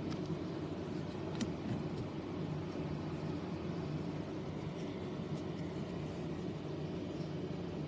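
Steady background hum and hiss of room tone, with a couple of faint clicks in the first two seconds.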